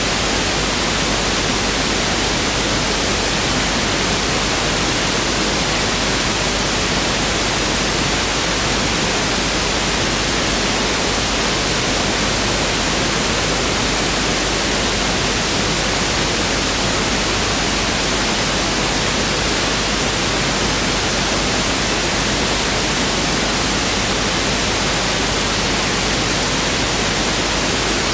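Pink noise (1/f) test signal: a steady, even hiss.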